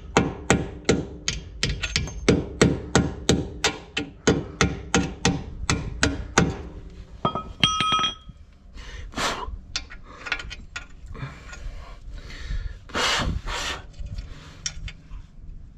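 Steady hammer blows, about two and a half a second, during tie rod end work on a Ford Transit's front steering. They stop about six and a half seconds in. A brief metallic ring follows, then lighter scraping and knocking.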